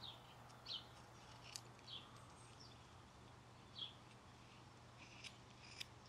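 Near silence: a bird gives short, faint high chirps every second or so, with a few faint sharp ticks from the knife cutting basswood.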